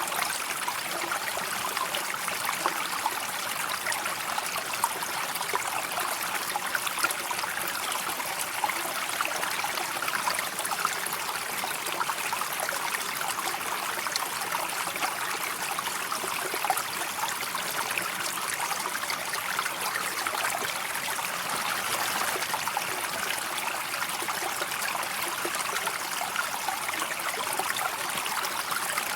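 River water flowing steadily, a continuous trickling and gurgling rush with many small splashes.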